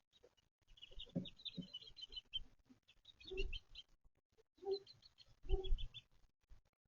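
Chickens clucking and chirping in three short bursts, about a second, three seconds and five seconds in, with some low thuds among them.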